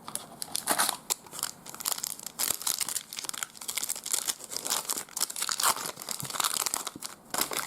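Trading card pack wrapper crinkling and tearing as it is handled and pulled open, an irregular run of crackles.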